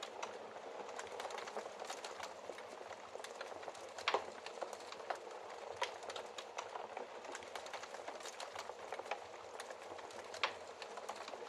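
Wood fire in a fireplace crackling: a steady soft hiss with frequent small pops and snaps, the sharpest pop about four seconds in and another near the end.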